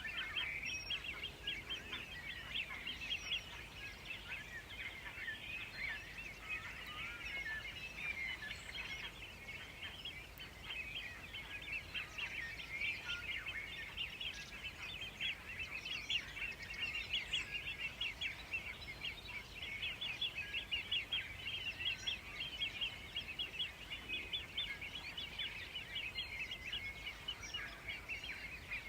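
Many small birds chirping and twittering in a dense, continuous chorus, with a faint steady background hiss.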